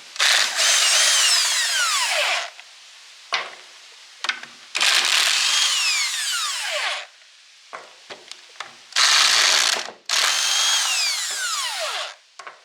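Impact wrench run in four bursts to back out the bolts of an old horizontal milling machine. Each burst ends in a falling whine as the motor winds down.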